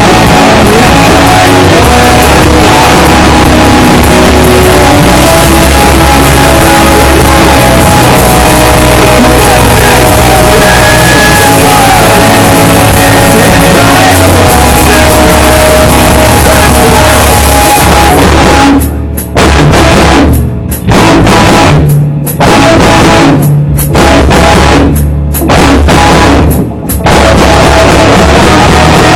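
A rock band at practice plays heavy rock with drum kit and guitars, recorded so loud that it is harsh and distorted. In the last third the band breaks into stop-start hits: six brief cut-offs about a second and a half apart.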